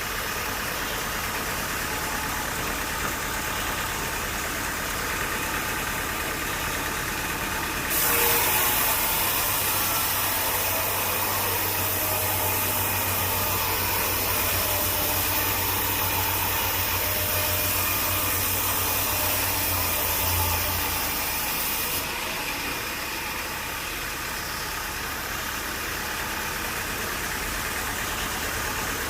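Sawmill running steadily. About eight seconds in, a louder, hissier noise with a low hum starts and lasts about fourteen seconds before dropping back to the steady running sound.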